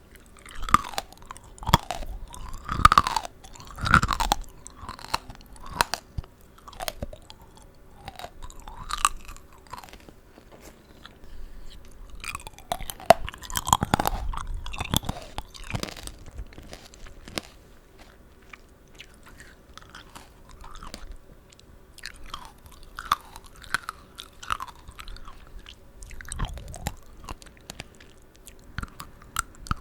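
Close-up crunching and chewing of tanghulu, fruit coated in a hard sugar-candy shell, bitten and chewed in irregular crisp crunches. The crunching is heaviest in two spells, near the start and around the middle, and lighter toward the end.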